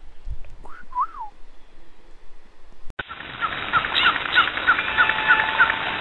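Bird chirping: one rising-and-falling chirp about a second in, then from about halfway a run of short, evenly spaced chirps, about three a second, over a steady hiss.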